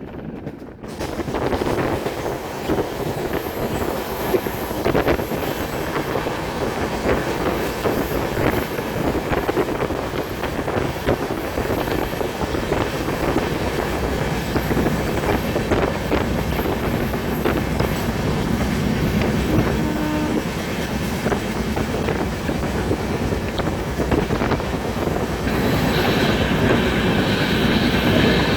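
Indrayani Express passenger train running on the track: steady rumble and wheel clatter, with a higher squeal joining in near the end.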